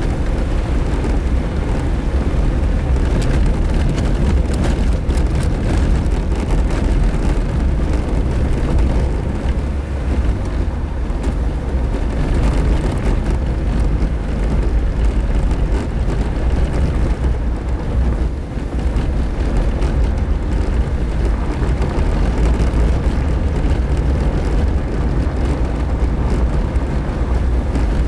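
Suzuki Jimny driving along a dirt road: a steady low rumble of engine and road noise.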